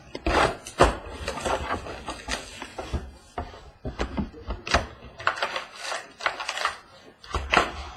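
Trading-card boxes and packs being handled at close range: an irregular run of taps, clicks and rustles as cardboard and card packs are moved and opened.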